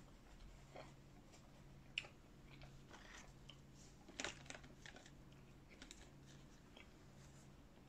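Faint, close-miked chewing of fast food, with scattered small clicks and crackles, one sharp click about two seconds in and a short burst of crackling about four seconds in.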